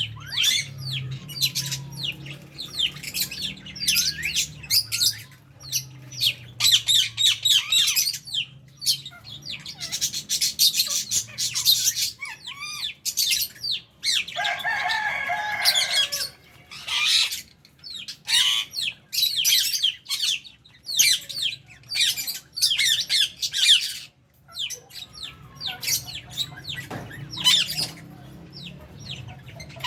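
A flock of lovebirds and budgies in an aviary chirping and chattering without pause, many quick high-pitched calls overlapping. About halfway through, one louder, lower, harsh call stands out for a couple of seconds.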